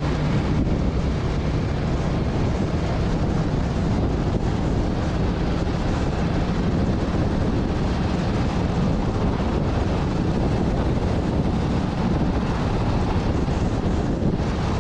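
Wind rushing over the microphone of a moving motorcycle, a steady low rumble with a faint engine hum underneath.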